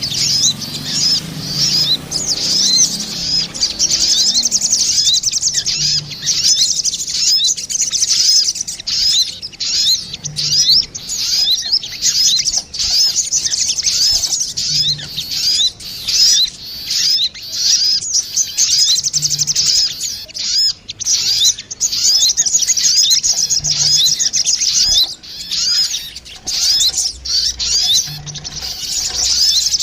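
Crimson sunbirds (sogon), male and female, answering each other in rapid, high-pitched chirps and trills, almost without a break. This is a lure recording. A faint low note repeats every four or five seconds underneath.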